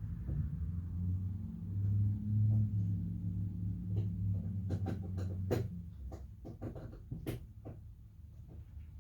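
Scattered short clicks and knocks of hand tools on metal, mostly in the second half, as a car battery is disconnected and removed. Under them runs a steady low hum.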